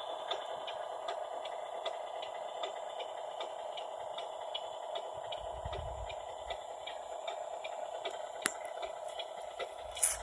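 An electric RC truck's drive motor and gears whining steadily, with scattered small ticks and clicks, a brief low rumble about halfway through and a sharper click near the end.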